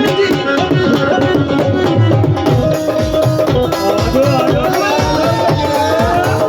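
Instrumental Punjabi live music: a steady drum beat under a gliding melodic line, with no singing.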